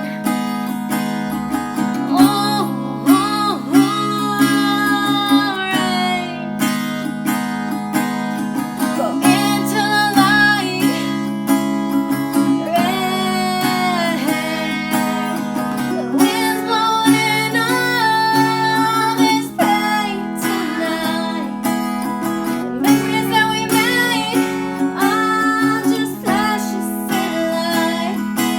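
Acoustic guitar strummed steadily with a voice singing over it.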